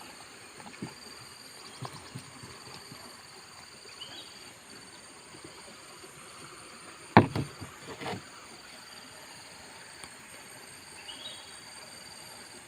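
Steady outdoor insect chorus, with a sharp knock about seven seconds in followed by a couple of lighter knocks, and a few faint ticks from handwork.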